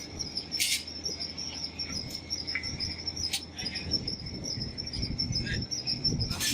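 Steady, rapidly pulsed high chirping like a cricket's, with a few sharp clicks or knocks over a low workshop rumble.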